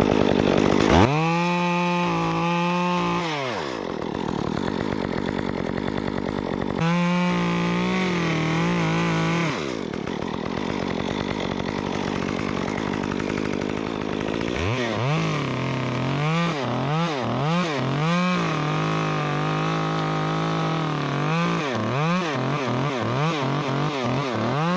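Stihl MS 194T top-handle chainsaw, a small two-stroke, fitted with a Ripsaw 1/4-inch conversion chain. It revs to full throttle twice for a few seconds and drops back to idle each time. From about halfway through it revs up and down many times in quick succession as it cuts.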